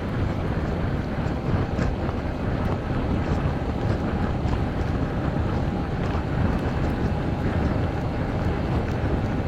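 Steady wind rush buffeting the microphone of a motorcycle on the move, an even low roar with no clear engine note standing out.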